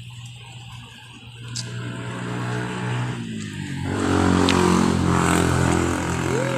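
A motor vehicle's engine running close by, growing louder and loudest about four to five seconds in.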